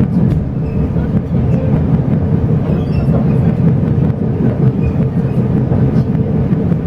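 Inside a Chu-Kuang Express passenger coach while the train is running: a steady low rumble of wheels and carriage, with faint scattered clicks.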